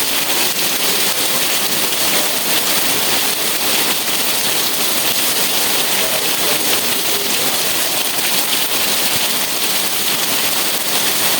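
Steady rain falling, a dense even hiss with fine patter of drops throughout.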